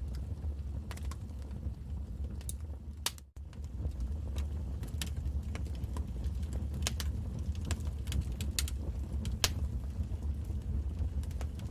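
Wood fire crackling in a fireplace: scattered sharp pops over a steady low rumble of flames, with one louder pop about nine seconds in. The sound drops out for a moment about three seconds in.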